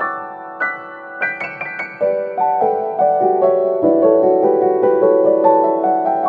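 Background piano music: gentle notes struck one after another, with a run of quick higher notes a little over a second in, then held chords stepping lower in pitch.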